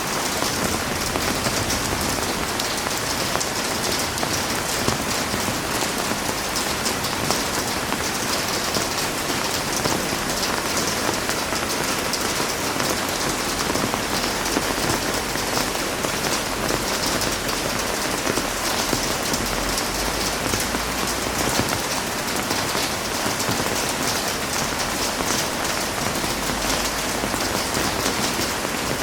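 Heavy rain falling steadily, a dense even hiss with fine pattering of drops.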